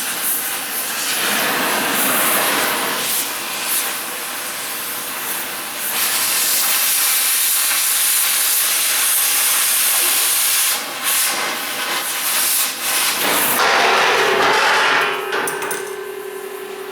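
Loud continuous hissing rush of steel being worked with a power tool, dropping out briefly a few times and stopping about fifteen seconds in. Near the end a steady ringing metal tone sounds and slowly fades.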